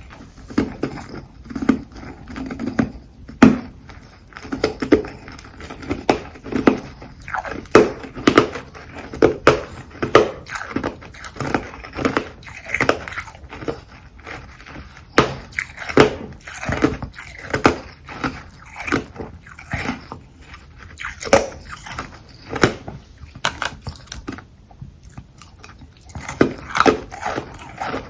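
Close-up crunching of carbonated ice being bitten and chewed, with sharp crunches coming about once or twice a second. There is a short lull about three-quarters of the way through.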